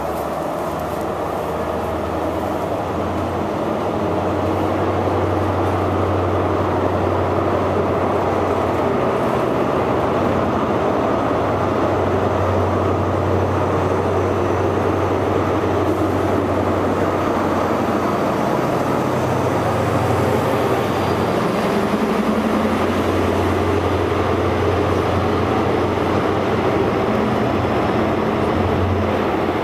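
A First Great Western High Speed Train (InterCity 125, Class 43 diesel power cars) running along the platform as it moves off. The coaches rumble steadily over the rails under a low engine drone, growing louder over the first few seconds and then holding.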